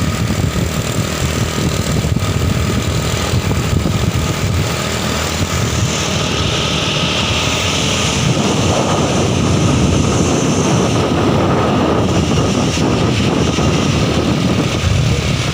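Heavy truck engine running loud and steady, with a hiss rising over it for about two seconds past the middle.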